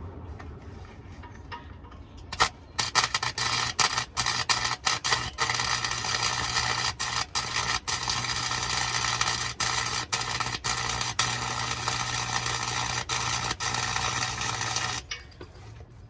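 Welding arc crackling on a truck exhaust: it starts a couple of seconds in with several quick stops and restarts, then runs steadily and cuts off about a second before the end.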